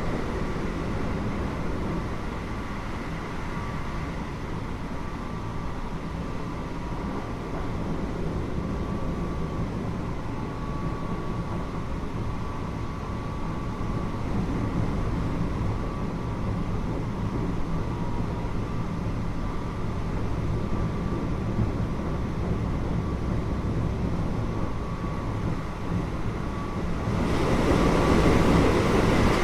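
Running noise inside a Keio 8000 series electric train car: a steady rumble of wheels and bogies on the rails, with faint steady tones above it. It grows louder near the end.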